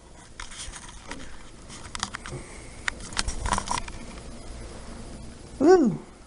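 Rustling and scratching with scattered sharp clicks through the first few seconds, then near the end a short, loud "woo" from a person's voice, falling in pitch.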